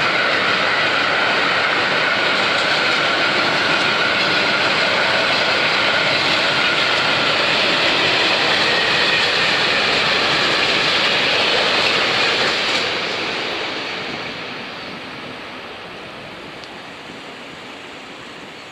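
Freight train of tank wagons rolling past with a steady, loud rail noise, which fades away from about thirteen seconds in as the last wagons go by.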